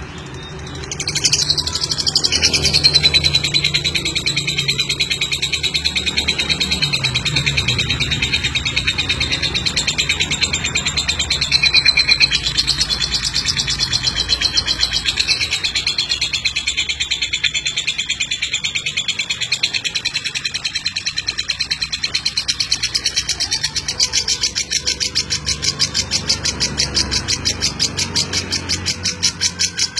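Lovebird giving a long, unbroken chattering trill (the 'ngekek' song), a fast run of high notes that starts about a second in.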